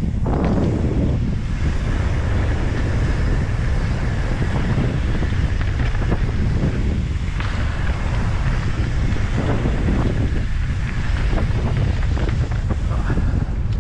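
Heavy wind noise buffeting the microphone as a mountain bike rides fast down a dirt trail, with scattered rattles and knocks from the bike over the ground.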